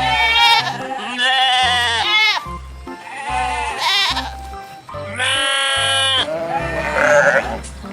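About five wavering bleats from sheep or goat-type livestock, the longest one about five seconds in, over background music with a steady bass beat.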